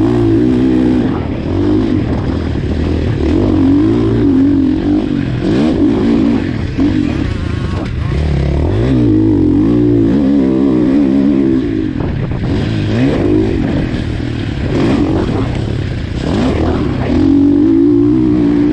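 KTM 450 SX-F motocross bike's single-cylinder four-stroke engine being ridden hard, its pitch climbing under throttle and dropping off over and over as the rider accelerates and shuts off.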